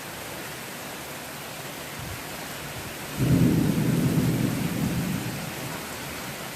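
Steady heavy rain hissing, with a loud rumble of thunder breaking in about halfway through and fading away over a couple of seconds.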